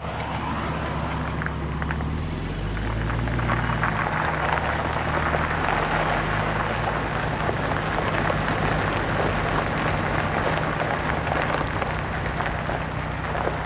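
A vehicle engine running under a steady rushing noise, its note rising and settling again a few seconds in.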